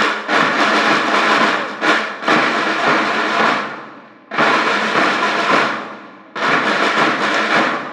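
School band percussion: loud drum and cymbal crashes about every two seconds, each ringing out and fading before the next.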